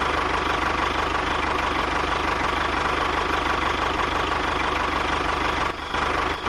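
Mini tractor's small motor running steadily, with a fast, even pulsing and a steady hum, dipping briefly near the end.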